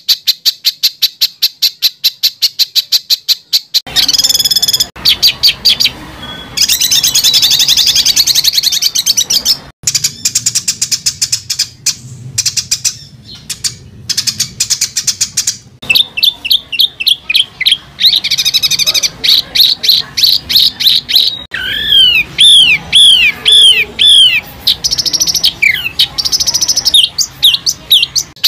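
Songbird 'masteran' calls: rapid, harsh repeated chip notes (about eight a second), dense scratchy song phrases, and a run of repeated down-slurred whistles, changing abruptly several times like spliced recordings.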